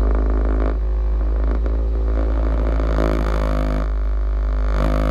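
2009 Honda Civic 1.8's engine running, its vibration picked up through the dashboard as a loud, steady low drone with overtones: the vibration of a failed engine mount.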